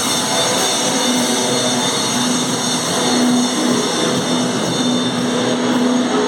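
Noise-metal band playing live through its amplifiers: a loud, dense wall of distorted noise with a held low tone that swells and drops out several times.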